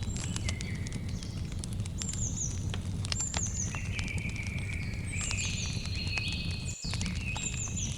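Campfire crackling with many sharp pops over a steady low rumble, with insects trilling and a bird repeating short, high, falling calls. The sound drops out very briefly a little before the end.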